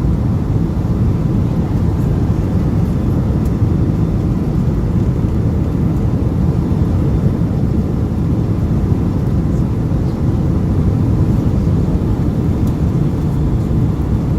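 Steady low rumble of a Boeing 757 heard from inside the passenger cabin, the engine and airflow noise of the airliner during its landing, unchanging throughout.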